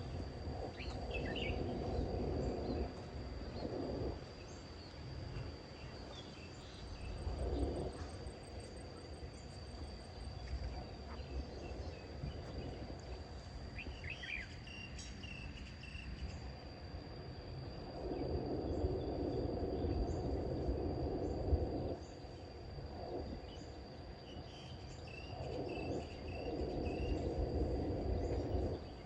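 A steady high-pitched insect drone with a few short bird chirps, about a second in, around halfway and near the end. Several times a low rushing swell rises and fades over a few seconds, typical of distant road traffic.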